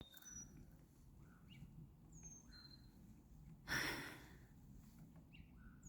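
Faint outdoor birdsong: a few short, high chirps spaced a second or two apart. About four seconds in, a brief breathy rush of noise, the loudest sound here.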